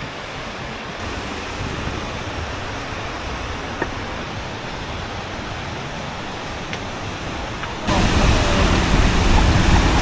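Steady rushing of a waterfall, which gets suddenly louder about eight seconds in.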